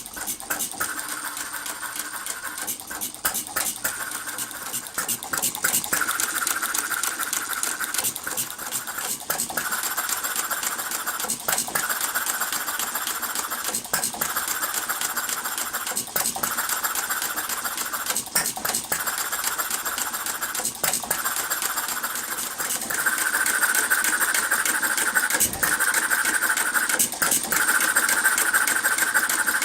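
Half-scale model Economy hit-and-miss gas engine running: a rapid mechanical clatter with brief dips about every two seconds. It gets louder about three quarters of the way through.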